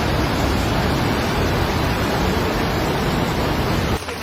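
Steady, loud rushing of fast-flowing floodwater, cutting off suddenly about four seconds in.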